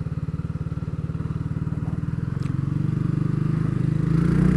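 Motorcycle engine running at a steady low idle-like pulse, then revving up as the bike pulls away, its pitch and loudness rising from about the middle onward.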